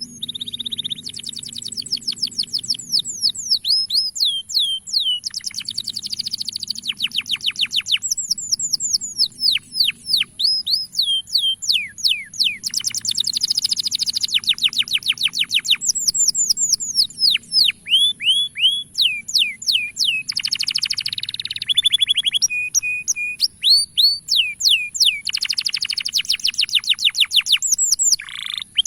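Male domestic canary singing a long, continuous song: rapid trills of quickly repeated falling notes that switch to a new phrase every second or two, with a few short gaps and a brief run of short flat whistles near the end.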